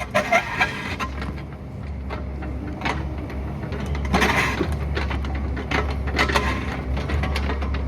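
Excavator engine running steadily while the bucket scrapes and knocks against rock, with a cluster of sharp clanks at the start and a longer scraping burst about four seconds in.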